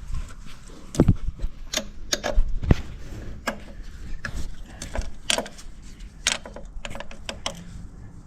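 Irregular metallic clicks and knocks of hand tools on a car's engine bay while a starter motor is being unbolted, about one or two strikes a second.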